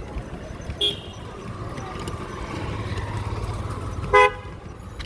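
Road traffic: a vehicle passes with a low engine rumble, with short horn toots, a faint one about a second in and a louder one near the end.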